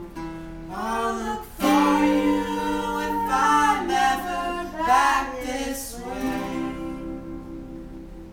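A voice singing over acoustic guitar. The held notes fade away near the end, as a song finishes.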